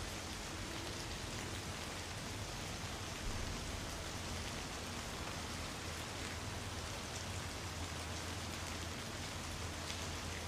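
Light rain falling steadily, an even hiss with scattered individual drops ticking, over a steady low rumble.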